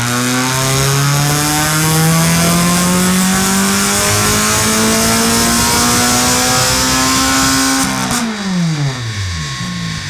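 Ferrari California V8 through a Capristo aftermarket exhaust under load, revs climbing steadily for about eight seconds. Then the throttle is released and the revs fall quickly.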